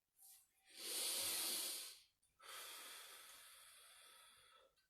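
A man breathing deeply between exercises: a brief faint breath, then a strong breath of about a second, then a longer breath that slowly fades.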